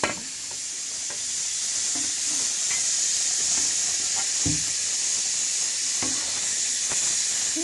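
Food sizzling as it fries in a pan, a steady hiss with a few light knocks.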